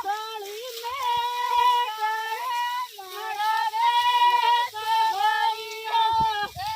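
Women singing a Marwari folk song in held, wavering phrases with short breaks for breath, in a high voice.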